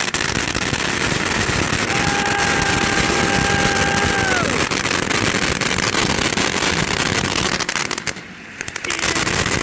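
500-gram Magnus Fireworks 'Phoenix Rising' cake firing: dense, continuous crackling with sharp pops. A steady whistling tone enters about two seconds in and drops in pitch as it dies away, and the crackle briefly thins about eight seconds in.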